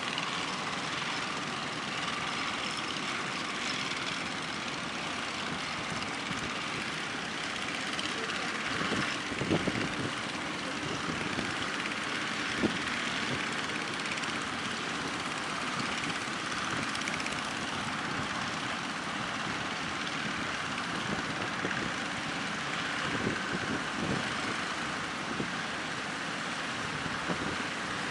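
Small fishing boats' engines running over the steady noise of surf and strong wind, with a few short knocks.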